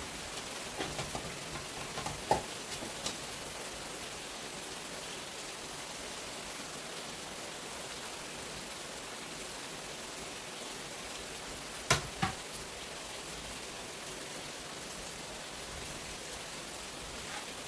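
Steady rain falling, an even hiss throughout. A few light knocks sound in the first three seconds, and two sharp knocks stand out about twelve seconds in.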